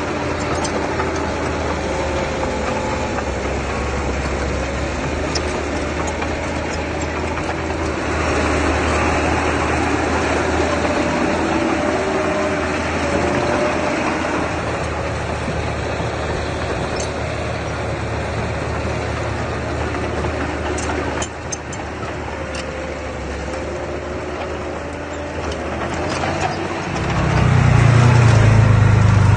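Engine of earthmoving machinery, a mini bulldozer or dump truck, running steadily under varying load, then growing much louder and deeper near the end as it works harder or comes closer.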